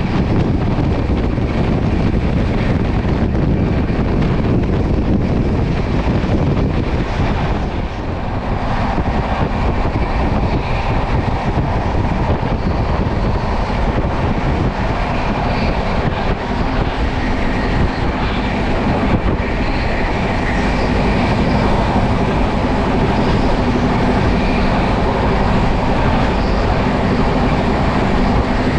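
Passenger train running at speed: a loud, steady rumble of wheels on the track.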